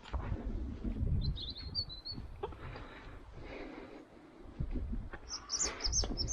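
A bird giving short, high chirps: a run of quick chirps about a second in and another near the end, over low rumbling and knocking.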